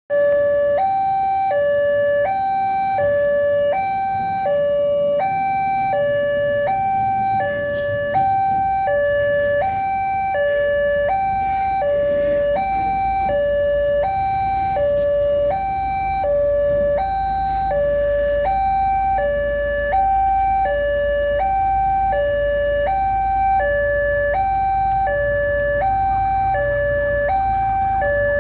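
Railway level crossing warning alarm sounding a steady electronic two-tone signal, alternating between a low and a higher tone about every three-quarters of a second. A low rumble builds underneath from about halfway through.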